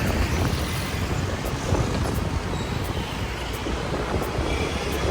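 Steady rush of wind and road noise while riding a motorbike, heaviest in the low end, with no distinct events.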